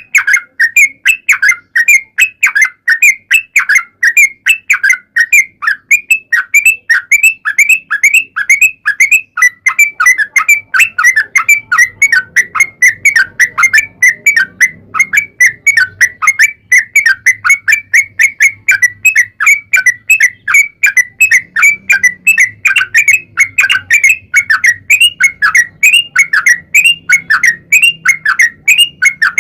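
Yellow-vented bulbul (trucuk) singing a long, unbroken run of quick, bubbly notes, about three to four a second.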